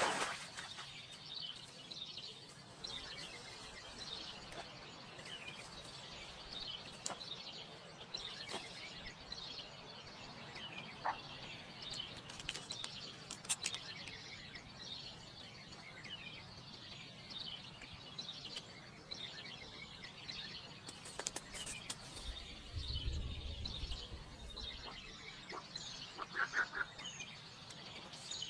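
Small birds chirping and twittering, with scattered sharp clicks and knocks and a brief low rumble late on.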